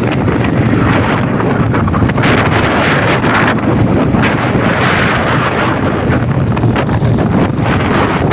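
Quad bike engine running steadily under way, with wind buffeting the microphone in gusts.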